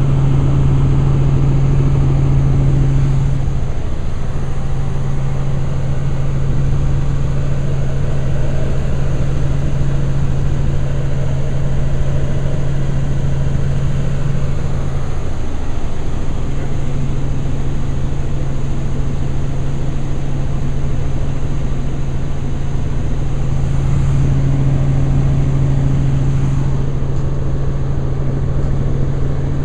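Helicopter in flight, heard from inside the cabin: a loud, steady drone of rotor and engine with a strong low hum. The hum briefly dips about 4 seconds in and again around 15 seconds.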